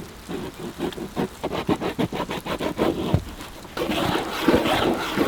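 A sharp stick scratching a circle for a makeshift sun compass: a run of quick, short scratching strokes, then a longer continuous scrape near the end.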